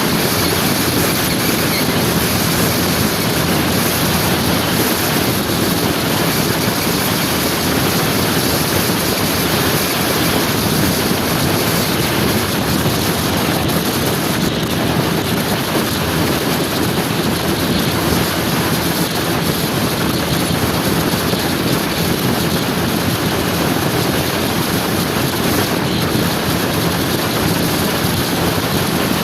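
Steady rush of wind on the microphone over the faint hum of a motor scooter's engine, as heard while riding along a road.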